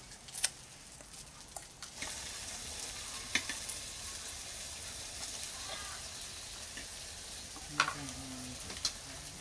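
Food sizzling as it fries in hot oil, a steady hiss that comes in about two seconds in. A few sharp clinks of utensils on steel dishes sound over it.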